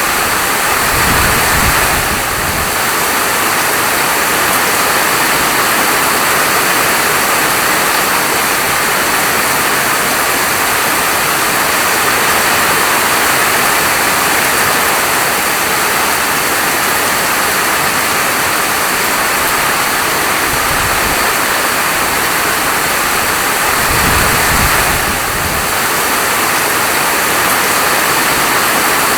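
Steady, heavy falling rain: a dense, even hiss. Twice a low rumble swells briefly under it, about a second in and again near the end.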